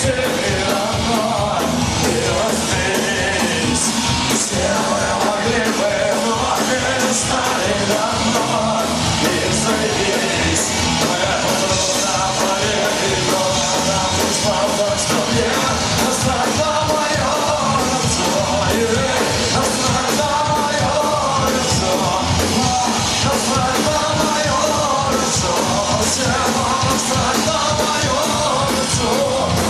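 Live punk rock band playing loud and continuously: electric guitars, bass and drums, with no sung words picked out.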